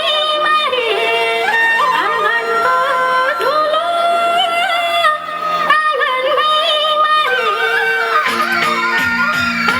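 A Teej folk song: a single voice sings a slow, ornamented melody with long held, bending notes. Near the end an instrumental rhythm comes in under it.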